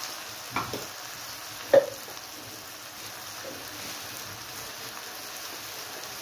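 Mutton and tomato curry sizzling steadily in a clay pot on a gas burner, with two sharp knocks, the louder a ringing clink near two seconds in.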